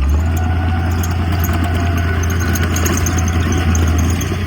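Diesel engine of heavy earthmoving equipment running steadily with a deep low drone, with light clicks and rattles over it.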